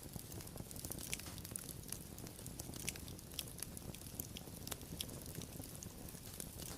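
Wood fire burning steadily with irregular sharp crackles and pops, several a second, over a soft low rumble of the flames.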